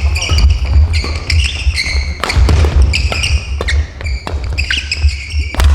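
Badminton doubles rally on an indoor court: repeated sharp racket strikes on the shuttlecock, sneakers squeaking on the gym floor and feet thudding, over a steady low rumble.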